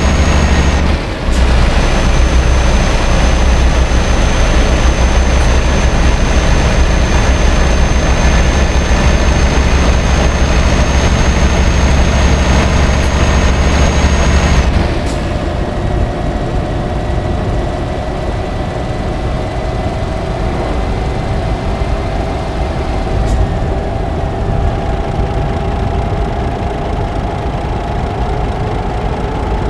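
Scania R560 truck's V8 diesel engine running steadily, loud with a high whine on top. About halfway through the sound drops and changes, and the engine's pitch then climbs slowly as it gathers revs.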